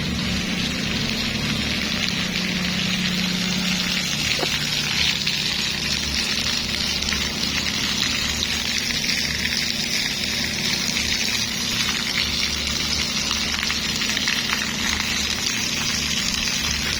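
Steady splash and hiss of water falling in a man-made decorative water feature, test-run with only a little water flowing, over a low hum.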